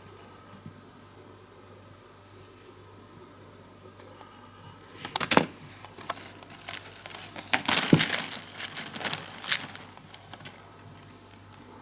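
Packaging crinkling and rustling as it is handled, in irregular bursts between about five and ten seconds in.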